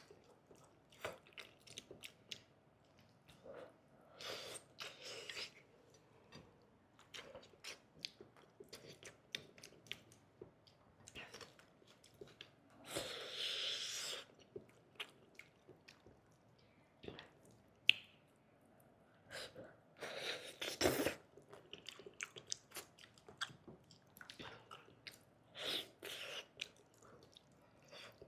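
Close-up wet chewing and mouth smacking of a person eating soft stewed pig brain, with many small clicks and a few longer noisy sounds of about a second each.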